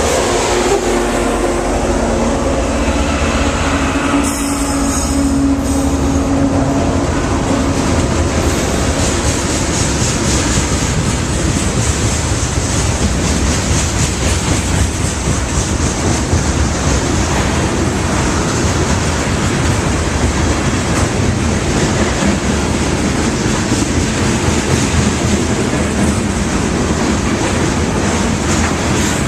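Loaded crude oil freight train rolling past. A steady engine hum fades out over the first several seconds, leaving the continuous rumble and clatter of the tank car wheels on the rails.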